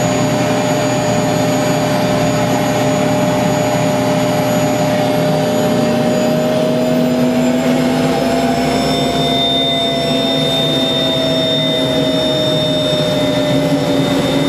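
Soko Aérospatiale SA 341 Gazelle helicopter's turboshaft engine running during start-up, a steady turbine whine. Its pitch rises slightly about halfway through and eases back, and a high whistle joins in about two-thirds of the way in.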